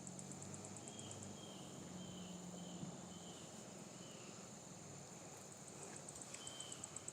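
Insects trilling in rapid, high-pitched pulses that stop about a second in and start again near the end, over short chirps repeated about twice a second.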